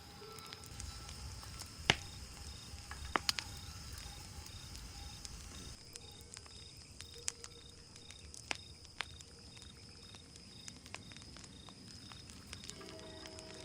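Wood fire crackling, with scattered sharp pops. Under it runs a steady, high, pulsing insect chirr.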